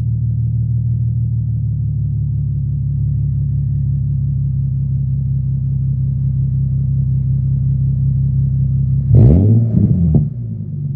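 Infiniti G37's VQ37 V6 running through a custom Y-pipe-back exhaust, idling steadily, then given two quick revs near the end that rise and fall back to idle.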